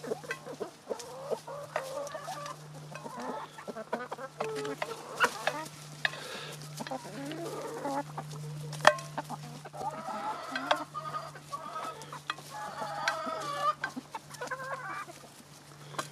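Backyard hens clucking softly and repeatedly while they feed, with scattered sharp taps and a steady low hum underneath.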